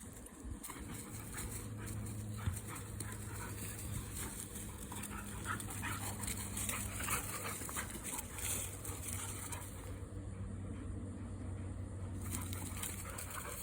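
Dogs playing together, making scattered short dog noises and scuffling. A steady low hum runs underneath.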